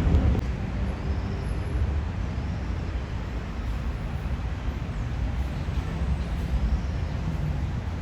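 Boeing 757-200 cabin noise: a steady low rumble of the engines and rushing air. It eases slightly just after the start, then holds steady.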